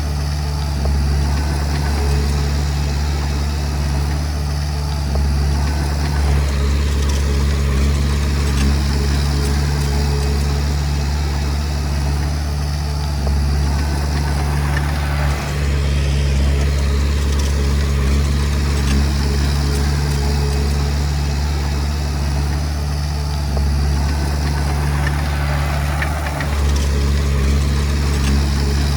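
Komatsu D20P bulldozer's diesel engine running steadily, a deep, even drone with no break.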